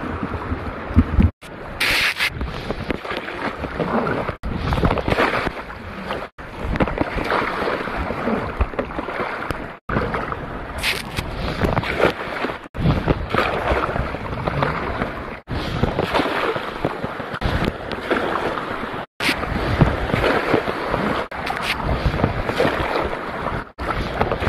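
Water sloshing and splashing with wind buffeting the microphone, broken by brief dropouts every two to three seconds.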